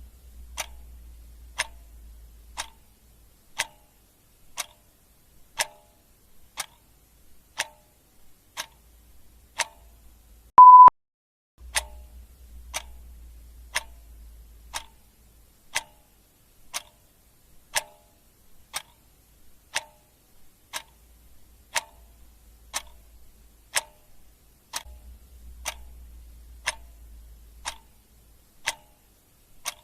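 Clock ticking sound effect, steady sharp ticks about once a second. About eleven seconds in, a single short, loud beep sounds between ticks.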